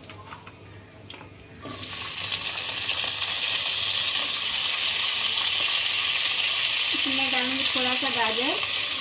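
Cubed potatoes dropped into hot ghee in an aluminium kadai set off a loud frying sizzle that starts suddenly a little under two seconds in and then runs on as a steady hiss.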